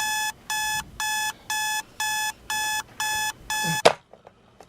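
Electronic alarm clock beeping, a pitched beep about twice a second, cut off with a sharp knock near the end as it is switched off.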